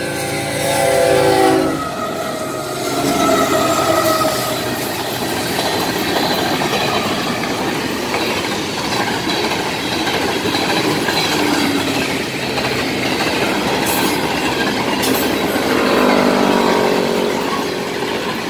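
Florida East Coast freight train passing close by. The locomotive horn sounds at the start and cuts off about a second and a half in, giving way to the steady rumble and clatter of boxcars and tank cars rolling past at speed. A brief pitched whine rises out of the noise about sixteen seconds in.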